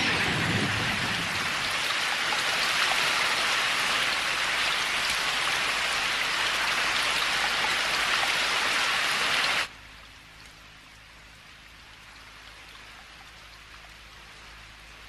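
Steady hiss of heavy rain that cuts off suddenly about ten seconds in, leaving only a faint low background hum.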